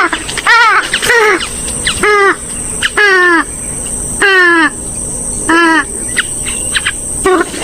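Swamphen and moorhen calls: a series of loud, harsh calls, most of them dropping in pitch, repeated about once a second, with a few short clicks between them.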